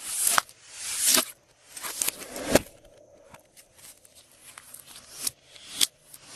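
Glossy slime being stretched, folded and squished by hand: wet hissing swells that build and end in sharp popping snaps as air pockets burst, about once a second at first, then softer clicks with a couple of loud snaps later.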